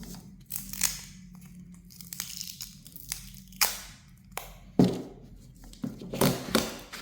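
Thin plastic rustling and tearing in several short, irregular bursts, the loudest a little under five seconds in.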